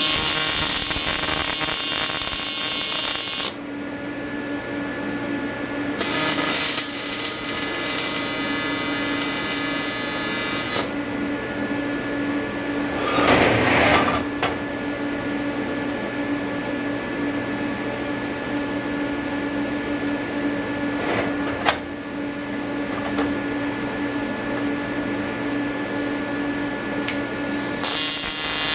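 AC TIG arc buzzing as aluminum is welded on an Everlast 325EXT inverter set to advanced square wave with about 100 to 150 Hz AC frequency. It comes in three welds: from the start to about 3.5 s, from about 6 to 11 s, and again near the end. Between welds the machine hums steadily, with a brief hiss about 13 s in and a sharp click near 22 s.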